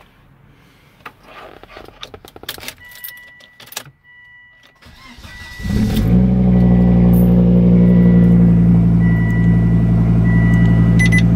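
2005 Volvo S60's turbocharged five-cylinder engine starting about five and a half seconds in, then idling steadily and smoothly on its first start with a new heavy-duty compressor bypass valve fitted. Before the start there are scattered clicks and knocks, and a high steady chime tone from the door-open warning.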